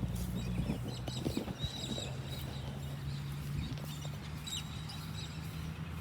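Birds chirping in short, scattered high calls over a steady low hum.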